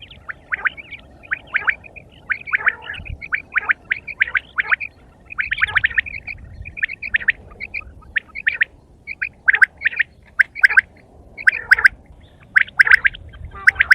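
Quail calling: short, sharp chirping notes repeated in quick runs of several a second, with brief gaps between runs, louder in the second half.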